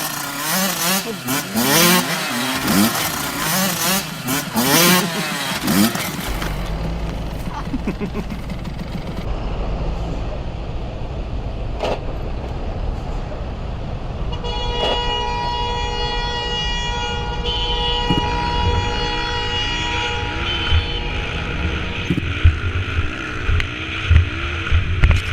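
Motorcycle engines revving up and down over rumble and wind noise. In the middle a steady tone is held for several seconds.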